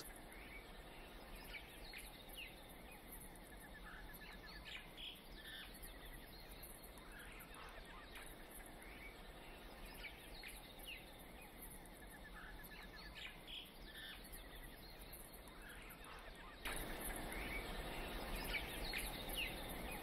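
Faint scattered bird chirps and a few short trills over a quiet outdoor background, the background growing a little louder a few seconds before the end.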